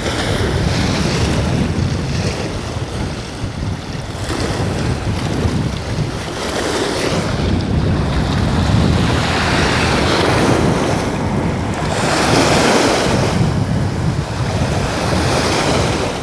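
Wind buffeting the microphone over sea waves washing against a rock breakwater. The wind noise and wash swell and ease in surges every few seconds.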